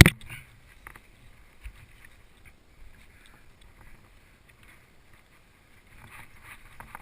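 Mountain bike rolling over a rough trail: a sharp knock right at the start, then scattered light clicks and rattles from the bike.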